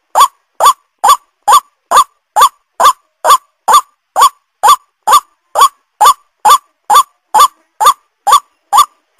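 White-breasted waterhen (ruak-ruak) calls played as a bird lure: a short rising note repeated evenly about twice a second.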